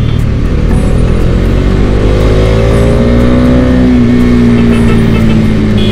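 Bajaj Dominar motorcycle engine running under way in slow traffic, its pitch rising gently and then holding steady, over wind and road noise.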